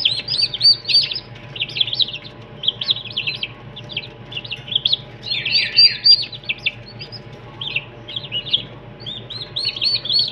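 A flock of young turkey poults peeping: a dense, continuous run of short, high chirps, many birds calling over one another.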